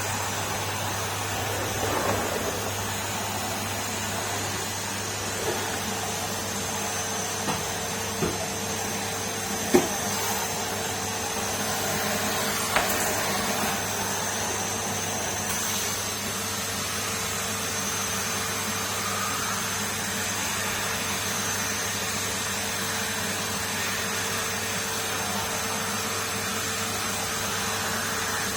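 Numatic Henry canister vacuum cleaner running steadily, a constant motor hum and whine over airflow noise. A few short knocks and clicks break through in the first half, the sharpest about ten seconds in.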